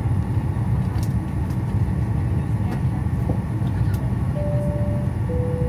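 Steady low rumble of an airliner heard inside the cabin as it readies for takeoff, with a few faint clicks. Near the end a repeating two-note tone starts, alternating higher and lower.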